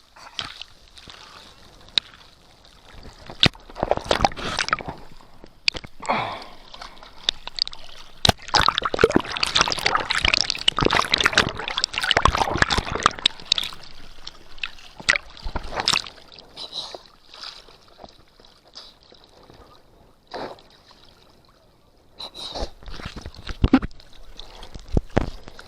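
Water sloshing and splashing in irregular bursts, with sharp knocks and clicks throughout; the busiest stretch is in the middle.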